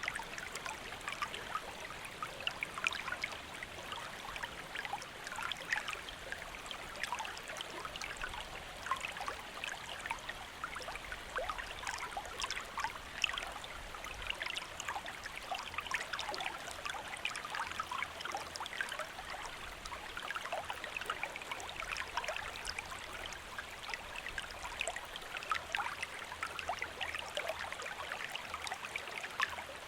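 Shallow stream flowing steadily, a constant rush of water with many small splashes and gurgles.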